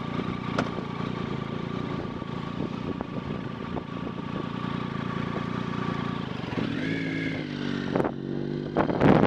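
Motorcycle engine running at a steady pace, its pitch shifting about seven seconds in as the revs change. Wind buffets the microphone near the end.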